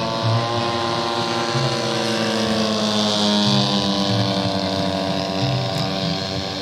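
Radio-controlled model airplane's engine running steadily, its pitch drifting slightly up and down.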